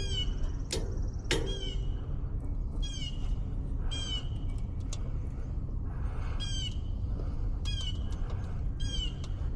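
A bird calling repeatedly, a short high chirp about once a second, over a steady low rumble, with a few light clicks near the start.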